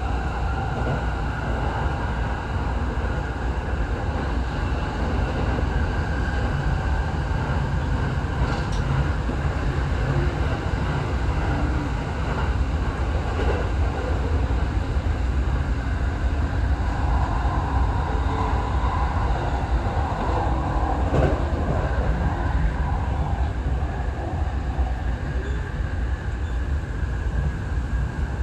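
Running noise heard inside a Tokyo Waterfront Area Rapid Transit 70-000 series electric train: a steady low rumble of wheels on the track, with a few sharp clicks.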